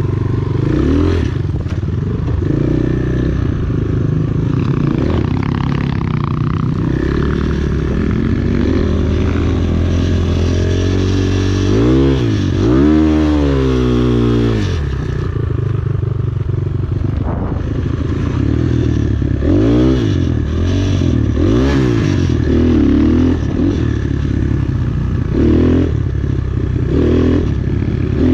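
Enduro motorcycle engine running under load, the revs rising and falling again and again as the rider works the throttle and gears, with a quick run of sharp rev swings about halfway through.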